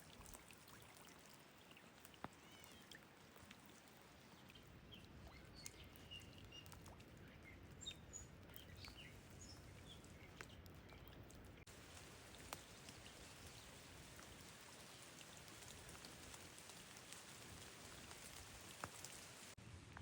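Faint light rain falling, with scattered single drops ticking. Short high bird chirps come in a few seconds in and die away before the middle.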